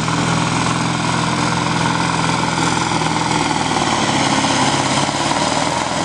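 Semi truck diesel engine running loudly at a steady pitch.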